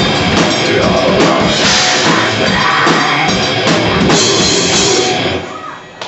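Death metal band playing live: distorted guitars and fast drums, loud and dense, ending about five and a half seconds in.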